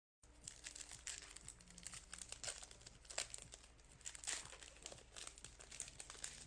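Plastic-foil trading card pack wrapper crinkling and tearing as it is opened by hand, an irregular run of crackles.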